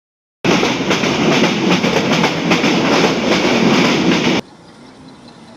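Local commuter train running, a loud rumble with the wheels clattering over the rail joints. It cuts off abruptly near the end to a much quieter background.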